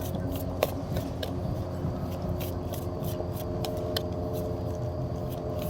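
Tarot cards being shuffled and handled: a run of light, irregular clicks and scrapes over a steady low hum.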